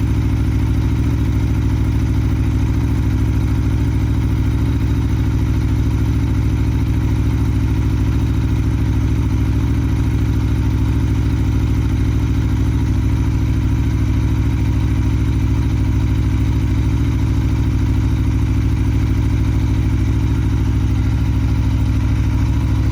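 Sport motorcycle engine idling steadily, with no revving.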